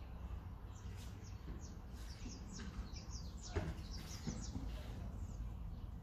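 Small wild birds chirping: many quick, high, down-slurred chirps in a busy run through the middle, with one sharp click about halfway through, over a steady low rumble.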